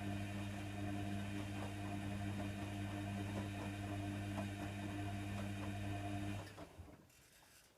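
Hoover Nextra HNWL7146 washer dryer running with a steady low hum and light ticking. The hum cuts off suddenly about six and a half seconds in, leaving the machine much quieter.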